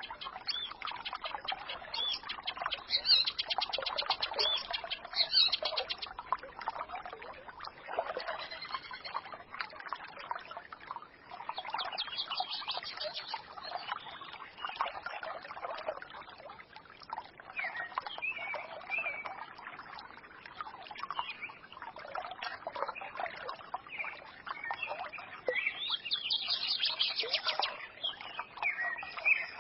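A small forest stream babbling and trickling without a break, with small birds chirping and twittering over it. Bursts of rapid, high trilling come a few seconds in, near the middle and again near the end.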